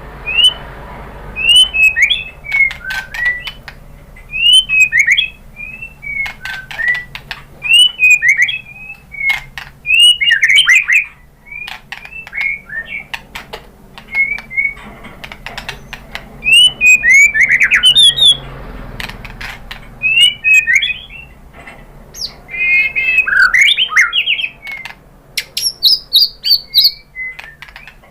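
White-rumped shama (murai batu) singing: loud whistled phrases that slide up and down, repeated every second or two, broken by sharp clicking notes. Near the end the song shifts to a quick run of higher notes.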